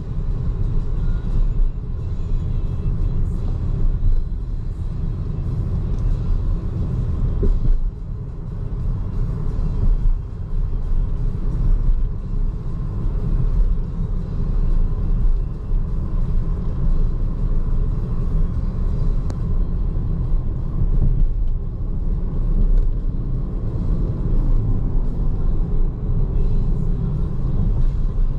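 Steady low rumble of road and tyre noise from a BYD Seagull electric car being driven, with no engine note.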